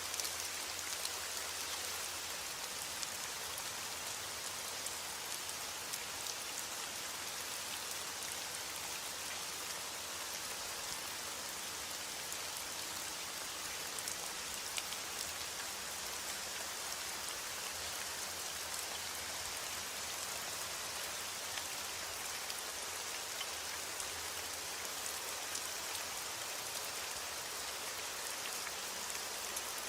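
Steady rain falling, an even hiss of drops with scattered sharper drip ticks and no thunder.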